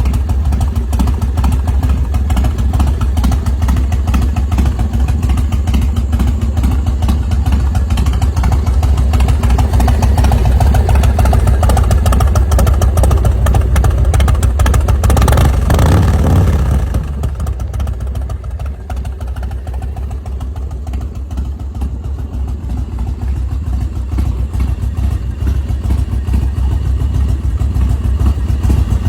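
1997 Harley-Davidson Softail Custom's V-twin engine with an S&S upgrade, running with a deep rumble. It builds through the first half with a quick rev just past the middle, then drops back to a lower run and picks up again near the end.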